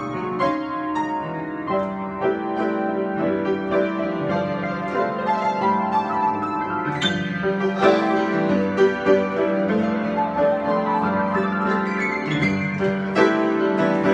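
Piano playing an improvisation: sustained chords with a melody of separate notes over them, struck afresh every second or so.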